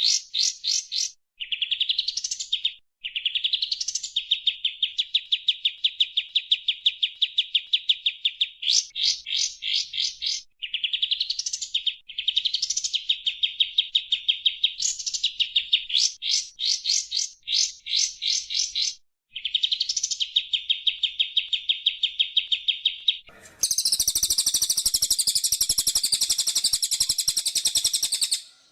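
Bird song: repeated phrases, each a quick rising note followed by a long, rapid, even trill, broken by short runs of fast chips. About five seconds before the end a louder, harsher, dense chatter takes over abruptly.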